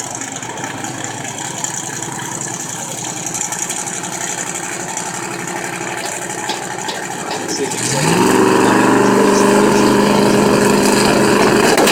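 Drag race car's engine idling, then revving up about eight seconds in and holding a steady, much louder high-rpm note.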